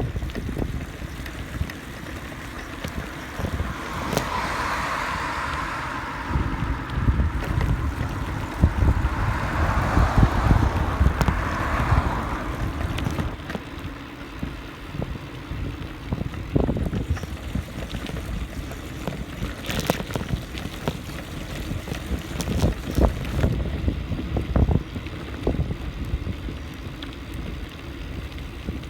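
Wind buffeting the microphone of a phone carried on a moving bicycle, over a constant low rumble, with scattered knocks and a gustier stretch a few seconds in.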